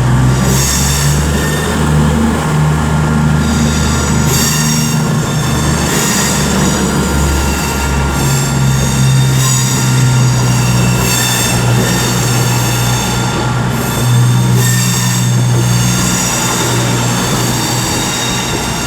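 CrossCountry Voyager and Super Voyager diesel multiple units moving out of the platform, their underfloor diesel engines running with a steady low hum. A high-pitched squeal from the wheels comes and goes.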